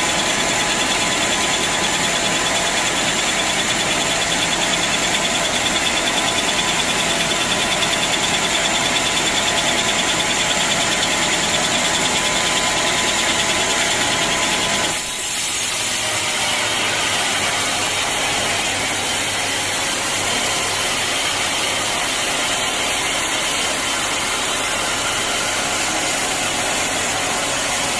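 Sawmill machinery running steadily, loud and continuous, with a sudden change in its sound about halfway through.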